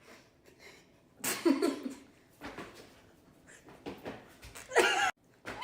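A few short bursts of a person's nonverbal vocal noises and laughter, the loudest about a second in and again near the end.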